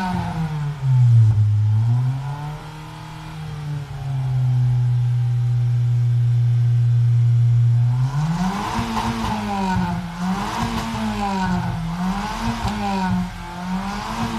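Vehicle engine being revved: the pitch dips and climbs, holds steady for about four seconds, then is blipped up and down repeatedly, about once every second and a half.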